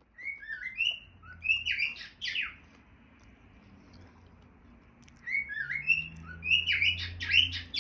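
Pet bird chirping and squawking in two noisy bouts of quick, high calls and sharp falling squawks, the first in the opening couple of seconds and the second from about five seconds in, with a lull between.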